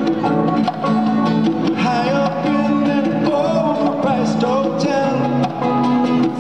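Band music: a singer's voice over guitar and a moving bass line.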